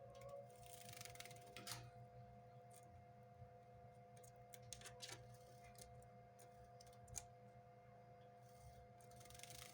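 Faint splashing and wing-fluttering of a siskin bathing in a cage's drinking bowl, in two short bursts about a second in and near the end, with scattered small clicks and a steady faint hum.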